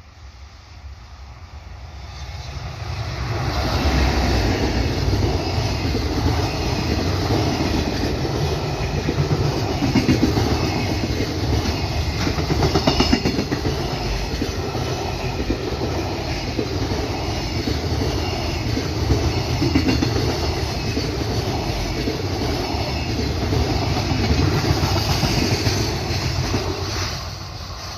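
Freight train passing, its wagons rumbling over the rails. It swells over the first few seconds, runs loud and steady, and drops away near the end as the train clears.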